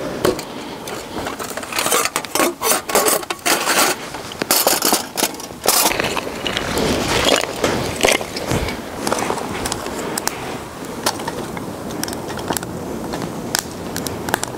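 Dry twigs snapping and firewood being handled for a hobo stove, a run of irregular sharp cracks and knocks with scraping in between, thickest in the first half.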